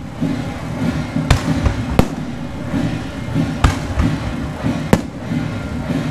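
Aerial firework shells bursting overhead: four loud sharp bangs spread over the few seconds, with a few fainter pops between them.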